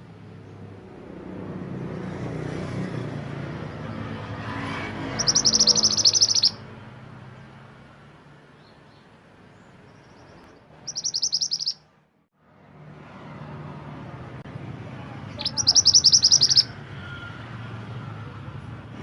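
Mantenan gunung songbird singing in three bursts of rapid, high chattering trills, about five, eleven and fifteen seconds in, over a low steady hum.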